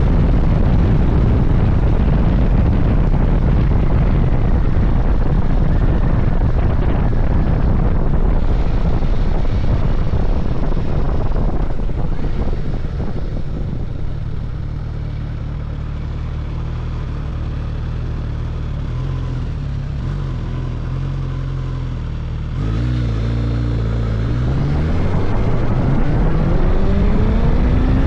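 Suzuki GSX-S1000GT's inline-four engine and wind rush while riding. It eases down to a steady low engine note about halfway through, then the engine pulls again near the end with a rising pitch as the bike accelerates.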